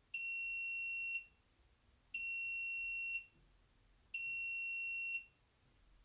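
Washing machine's end-of-cycle signal: three long, high electronic beeps, each about a second long with about a second's pause between, marking that the wash program has finished.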